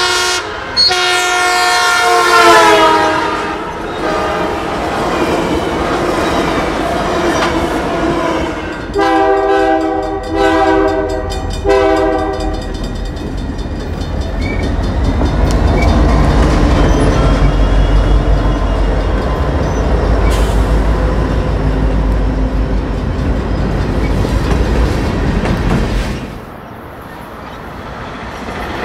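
A passenger train's diesel horn sounds as the train approaches, then drops in pitch as it passes. After that a Union Pacific freight locomotive sounds three horn blasts for a grade crossing, followed by a heavy low diesel engine rumble as the locomotives pass. Near the end the sound falls to quieter rolling rail noise.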